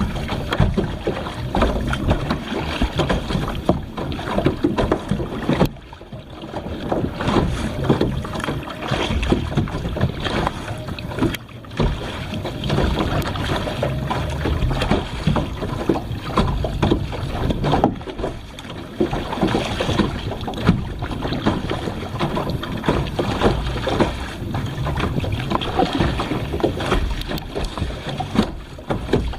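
Water splashing and sloshing around a kayak, with wind buffeting the microphone: a steady, uneven rush with many short surges.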